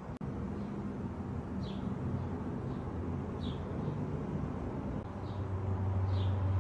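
Outdoor ambience: a bird gives short chirps that slide downward in pitch, about one every second or two, over a steady low rumble.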